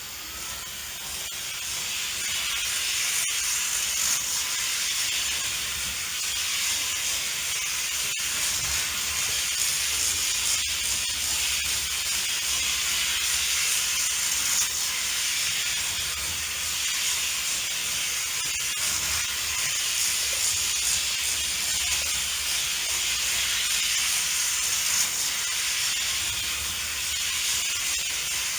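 Märklin HO model freight train running on C Track: a steady hissing whir of the small locomotive motor and wheels on the rails, with a faint low rumble. It swells over the first few seconds as the train comes nearer, and there are a few sharp clicks.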